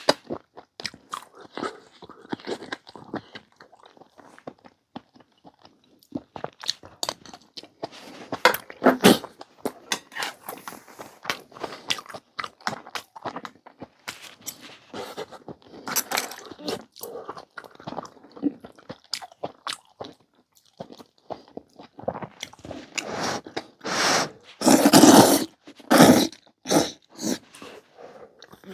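Close-up eating sounds: a person chewing and biting through a meal, with a steady run of short clicks and smacks and a louder stretch near the end.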